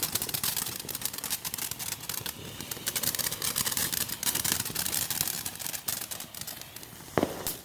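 Crackling firework: a dense stream of rapid small pops that thins out toward the end, with one sharper, louder crack near the end.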